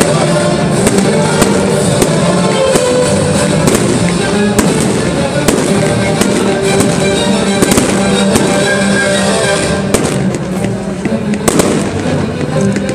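Fireworks going off: many sharp bangs and crackles in quick succession, over loud accompanying music.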